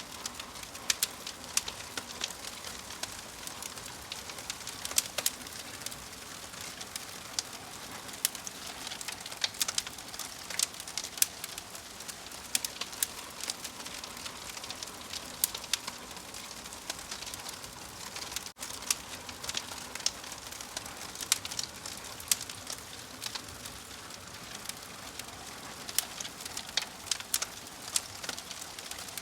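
Wood fire crackling, with frequent sharp pops and snaps over a soft steady hiss.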